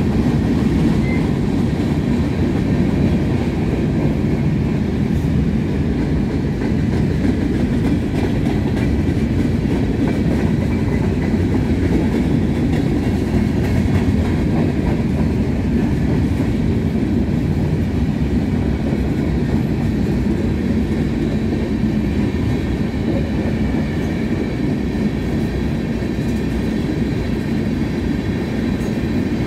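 CSX freight train's covered hopper cars rolling past at a steady speed: a loud, even rumble of steel wheels on rail, with the clickety-clack of wheels over the rails.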